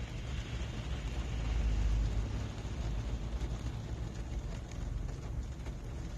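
Rain drumming on a car's roof and windows, heard from inside the cabin as a steady hiss over a deep low rumble that swells briefly about two seconds in.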